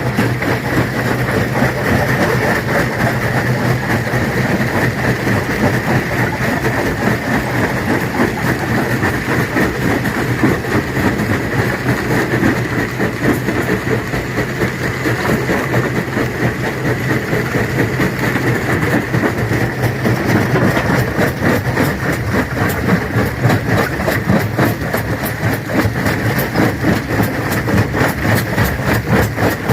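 A stone crusher running under load. The machine's steady drone is overlaid with a dense, continuous clatter of rocks being crunched and knocked inside it.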